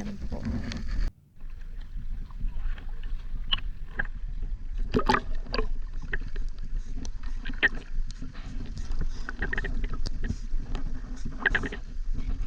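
Kayak on the sea under paddle: water splashing and sharp knocks of paddle against hull, over a steady low rumble. The sound drops out briefly about a second in.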